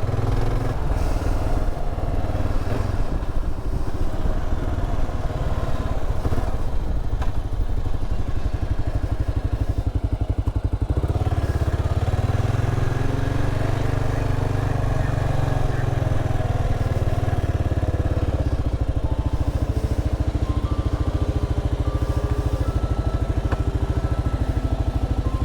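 Kawasaki KLR 650's single-cylinder engine running under way, its note shifting with the throttle about eleven seconds in and again near nineteen seconds.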